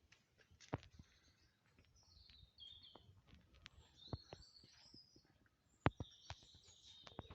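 Songbirds chirping and twittering in short high phrases, over a faint outdoor hush, with about five sharp clicks or knocks scattered through it, the loudest about six seconds in.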